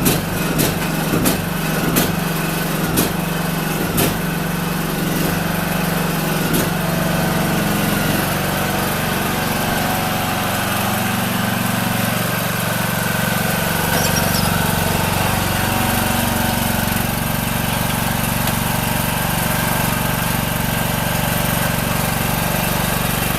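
John Deere D105 lawn tractor's Briggs & Stratton engine running steadily, its speed shifting slightly a couple of times. Sharp clicks come about once a second during the first six seconds or so.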